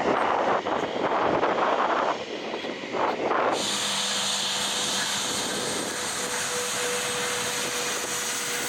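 Jet engines of an SJ-100 airliner running on the runway during a high-speed taxi run: a rough rushing noise that changes abruptly about three and a half seconds in to a steadier whine with a held hum.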